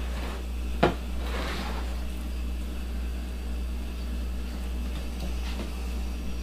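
A utensil knocks sharply once against a dish about a second in, then scrapes briefly, as thick fudge is spread in the pan. A steady low hum runs underneath.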